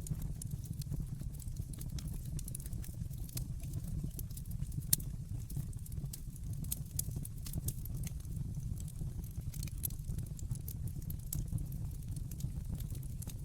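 Wood fire in a fireplace crackling, with irregular sharp pops and snaps over a steady low rumble of the flames; one louder pop about five seconds in.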